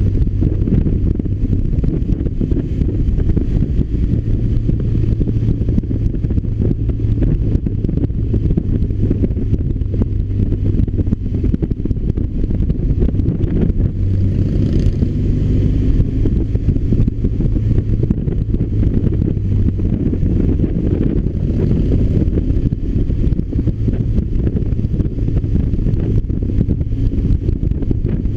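BMW R 1200 RT boxer-twin engine running at a fairly steady pitch while riding, with wind rushing over the microphone.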